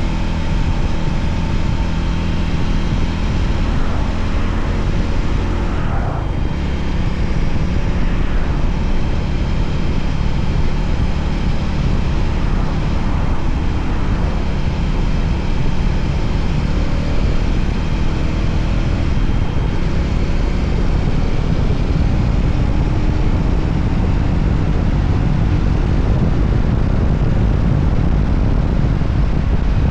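Voge 300ACX motorcycle engine running steadily at cruising speed, with wind and road noise from riding.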